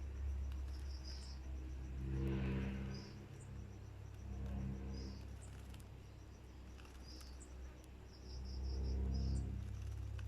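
Caged oriental magpie-robin (kacer) giving short, high chirps about every second or so, over a steady fine insect-like ticking trill. A low hum swells up twice.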